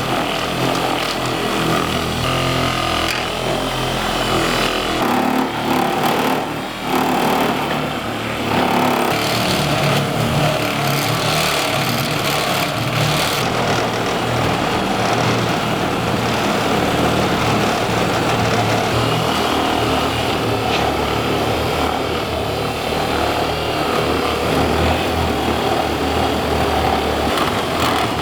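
Power polisher running continuously, its pad working an abrasive polish over the painted steel of a toolbox.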